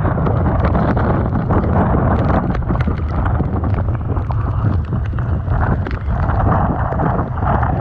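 Typhoon-force wind buffeting the microphone in a heavy, steady rumble over a rough, churning sea, with many short crackles through it.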